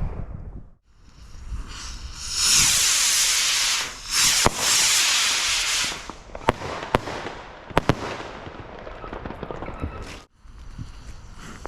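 Consumer fireworks going off: loud hissing spurts lasting a couple of seconds each, with several sharp bangs and crackles. The sound breaks off twice.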